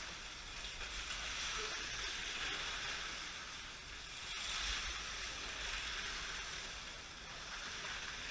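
Slot cars running on the track: a steady whirring hiss from their small electric motors and pickups, swelling and fading every couple of seconds as the cars come past.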